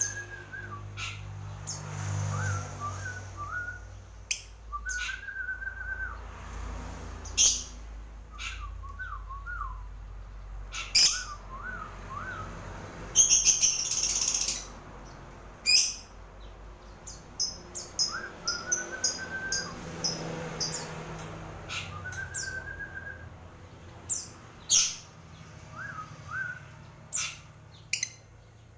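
Lovebird giving sharp, shrill chirps at irregular intervals, with a quick burst of rapid chirps about halfway through, and softer wavering whistled phrases in between.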